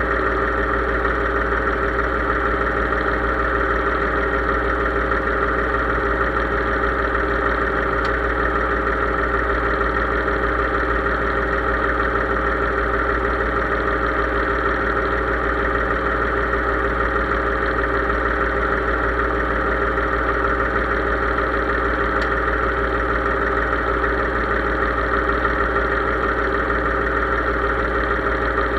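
Case IH 3220 tractor's diesel engine running steadily at an even speed, with no change in pitch or load.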